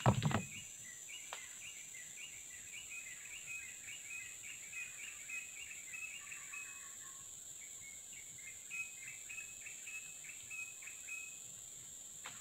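A bird calling in a long run of short, quick repeated notes over a steady high-pitched insect drone, with a brief thump right at the start.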